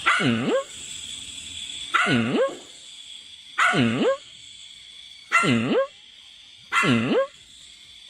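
A dog barking in five short, alike calls, one every second and a half to two seconds, each dipping in pitch and rising back up.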